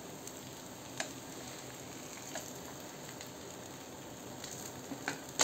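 Moong dal chilla frying in oil in a non-stick pan: a soft, steady sizzle, with a few light clicks and taps, the sharpest near the end.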